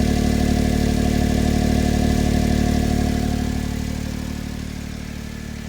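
Honda S660's small turbocharged three-cylinder idling through an HKS Hyper SPEC-L II aftermarket exhaust during a cold-weather warm-up. A steady exhaust note that gets clearly quieter from about three seconds in, as the warming engine settles toward a quieter idle.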